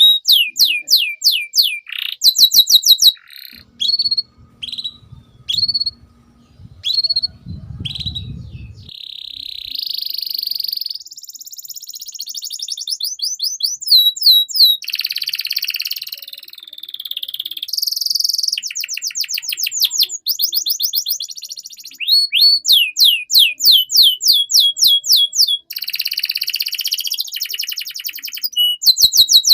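Domestic canary singing a long, unbroken song: fast runs of repeated high, downward-sliding notes alternate with buzzy, rolling trills.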